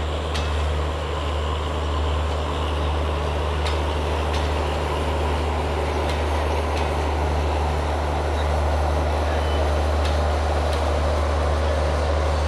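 Passenger coaches of a Bangladesh Railway intercity train rolling past on the track, a steady low rumble with a few faint clicks of wheels over the rail joints.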